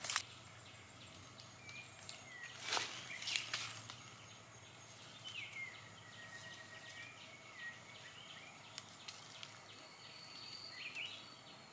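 Quiet forest ambience: faint, drawn-out bird whistles that glide up and down, heard a few times, with a couple of brief rustles of dry leaves about three seconds in.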